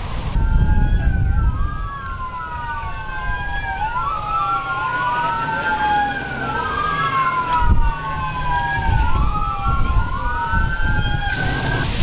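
Two emergency-vehicle sirens wailing at once, each rising and falling slowly and out of step with the other, over a low rumble. They cut off abruptly near the end.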